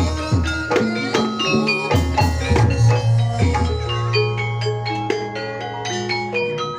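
Gamelan music: struck bronze metallophones ringing out many overlapping notes over low drum hits, with a long low held tone through the middle and quicker, denser strikes toward the end.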